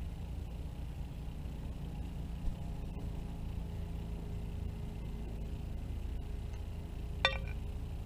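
Steady low background rumble, with a soft thump about two and a half seconds in and one short, sharp high call or click from a bird at the feeding plate near the end.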